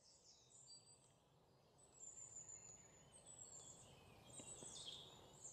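Faint birds chirping and trilling over a low outdoor background hiss, the calls a little livelier from about two seconds in.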